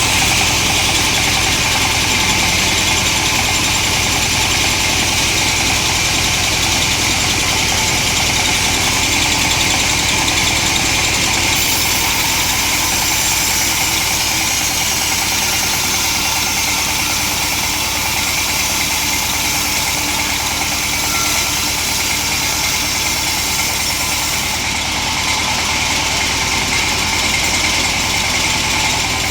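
Chainsaw engine running steadily, with no break or change in level.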